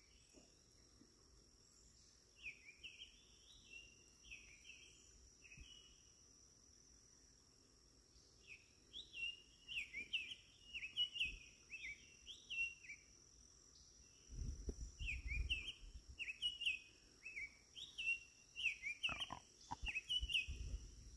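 A songbird singing in phrases of quick, short up-and-down chirps, faint against a steady high-pitched tone. Brief low rumbles come about two-thirds of the way in and again near the end.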